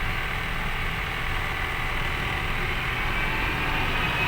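A truck on the move: a steady low engine and road rumble.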